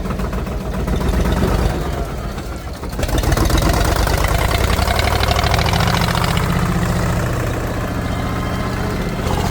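Tractor engine running, growing clearly louder about three seconds in and staying loud as it works.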